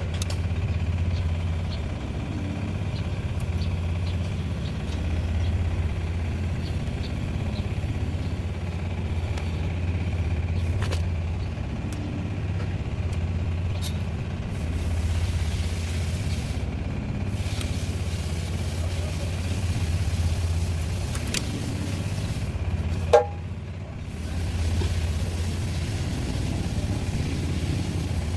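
Old tractor's engine running steadily with a low, even hum, and one sharp knock about three-quarters of the way through.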